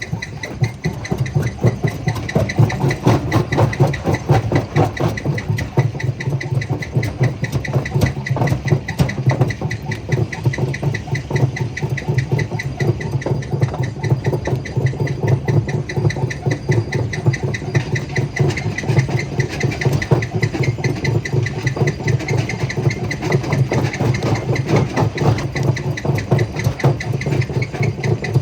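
Jaw crusher running: a steady low machine drone with a fast, continuous rattle of stone.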